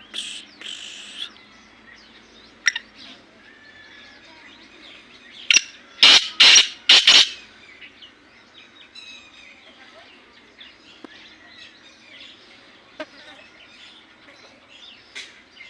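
Black francolin calling: a loud, harsh series of about five grating notes in the middle, after two shorter calls at the start, over a background of small birds chirping.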